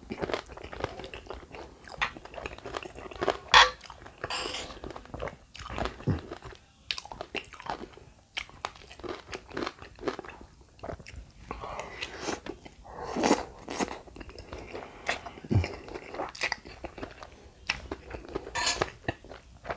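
Close-miked chewing and biting of a spoonful of lontong, curry and rice vermicelli, with irregular wet smacks and clicks of the mouth.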